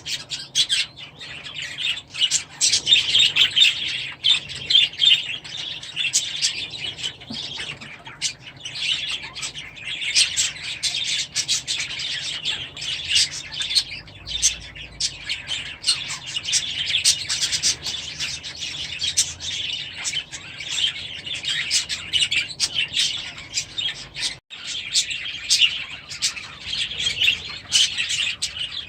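A flock of aviary birds chirping and chattering continuously, many short high calls overlapping.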